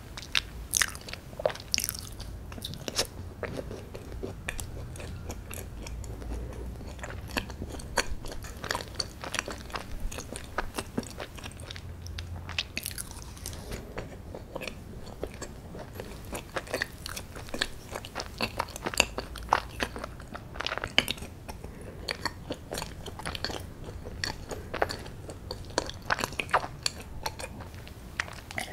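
A person biting and chewing fudgy chocolate brownie: a continuous run of soft bites, sticky mouth clicks and small crunches.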